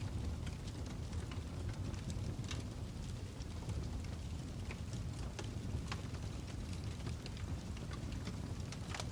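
Campfire burning with a steady low rumble, crackling and popping in scattered sharp clicks.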